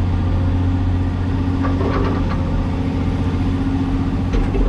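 Cat 336E excavator's diesel engine running steadily with a low, even hum. A few light knocks come about two seconds in and again near the end.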